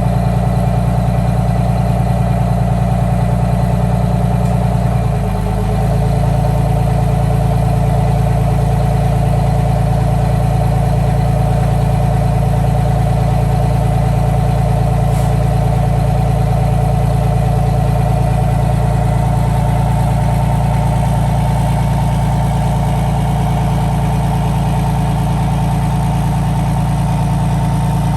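Detroit Diesel 6V92 TA two-stroke V6 turbo diesel in a GM 4106 coach idling steadily, with a brief change in its note about five seconds in.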